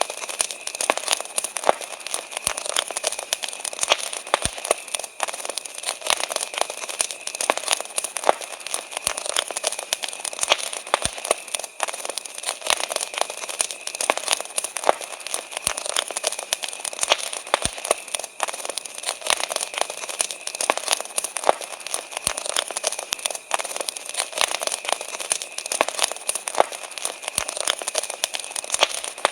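Wood fire crackling, a dense, irregular run of sharp pops and snaps, over a steady high chorus of crickets.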